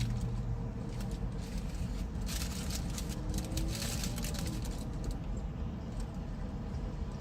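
Eating sounds over a steady low hum inside a car; about two seconds in, a burst of crackly rustling lasts about two seconds.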